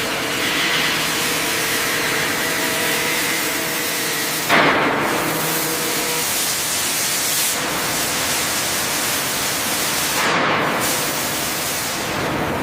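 A steady, loud hiss, with a sharper burst of hiss about four and a half seconds in and another near ten seconds.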